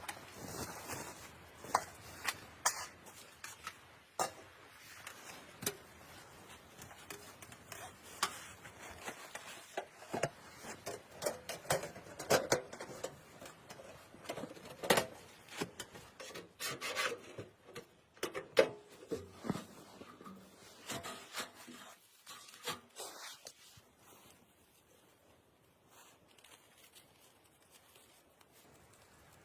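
Irregular rubbing, scraping and light knocks from hands working with something, dying down to a quiet stretch for the last several seconds.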